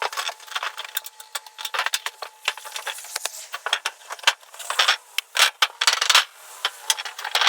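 Cloth wiping and rubbing over a metal roofing panel, in short scratchy strokes with many light clicks and taps. The strokes grow louder past the middle.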